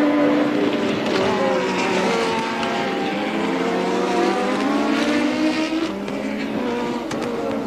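Engines of 1983 Formula One cars racing, more than one heard at once, their pitches rising and falling as the cars accelerate and lift.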